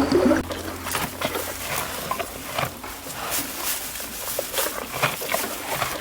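An animal making a string of short, irregular noises, several a second, after a backing track cuts off about half a second in.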